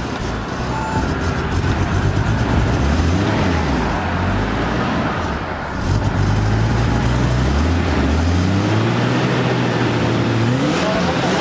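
Turbocharged Nissan Skyline engine running after its first start, the revs rising and falling several times.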